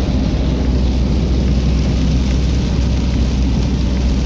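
Steady road noise inside a car cabin on a waterlogged highway: a deep, even rumble of tyres and engine with a hiss of rain and spray from the wet road.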